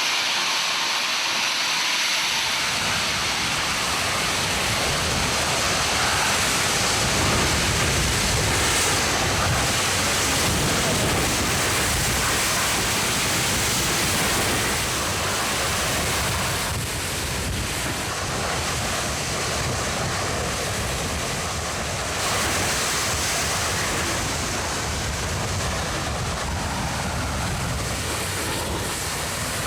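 Pressurised burning gas from a leak, a loud, steady rushing noise that dips slightly midway and rises again.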